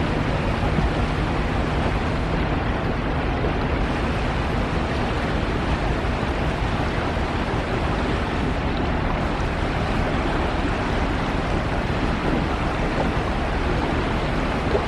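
Steady rush of water and wind on the microphone aboard a sea truck under way, with a low rumble underneath.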